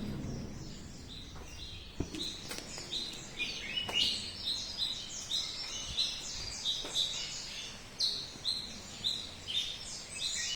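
Birds chirping: a steady run of short, high, downward-slurred chirps, about two a second, several overlapping.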